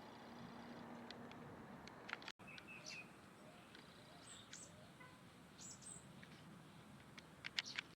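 Faint calls of small birds: scattered short high chirps and brief call notes over a quiet background hiss, with a few sharp clicks near the end.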